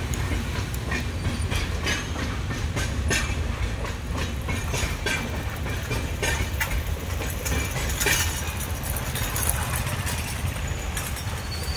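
Passenger train coaches rolling past close by: a steady rumble with the wheels clattering irregularly over the rail joints.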